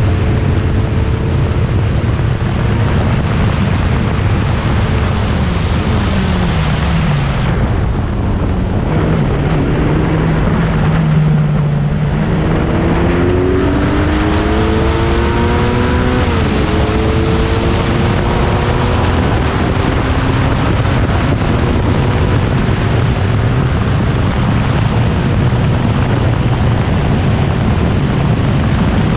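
1960s prototype racing car engine running hard at speed. Its pitch drops about six to eight seconds in, then climbs again from about twelve seconds, with a quick drop near sixteen seconds before it settles into a steady run.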